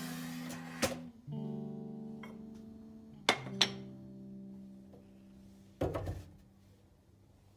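Background music: acoustic guitar chords, strummed a few times with each chord left ringing, fading out near the end.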